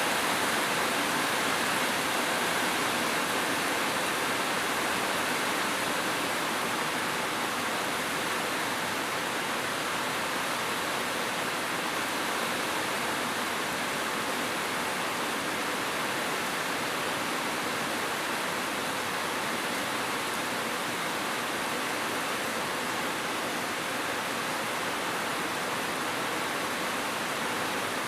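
Steady rain, an even hiss with no breaks and no single drops or thunder standing out.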